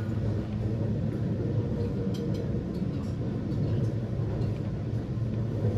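Steady low rumble and hum of an E261-series Saphir Odoriko express train running, heard inside the car, with a few faint light clicks.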